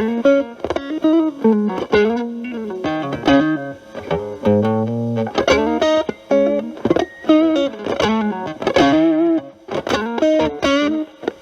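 Overdriven electric guitar: a Stratocaster with single-coil pickups played through a Boss DS-1 distortion stacked with an Ibanez TS9 Tube Screamer as a boost, into a Marshall Valvestate amp. It plays improvised single-note lead lines with picked attacks, string bends and vibrato.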